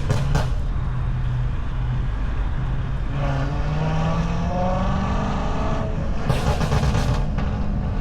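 Car engine and exhaust running under way, its pitch climbing steadily for a few seconds as the car accelerates, with short bursts of rushing noise near the start and again after the climb.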